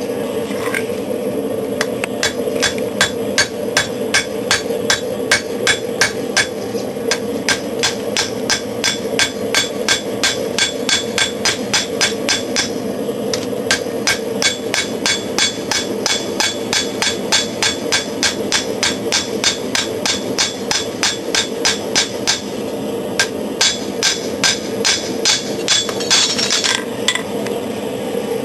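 Hand hammer striking a hot steel knife blade on an anvil in a steady run of blows, about three a second, with two short pauses, drawing the blade out thinner and longer. Under it is the steady rush of the forced-air gas forge.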